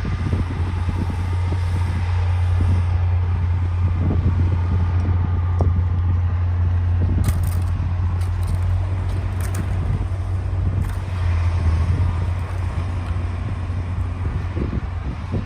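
D60 crawler bulldozer's diesel engine running steadily under load with a deep rumble, with a few short knocks or clanks about halfway through.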